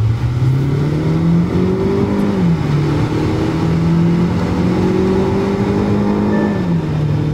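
Hyundai Alcazar's 2.0-litre naturally aspirated petrol engine under hard acceleration, heard from inside the cabin. The engine note climbs steadily, drops as the six-speed torque-converter automatic upshifts about two and a half seconds in, climbs again and drops at a second upshift near the end.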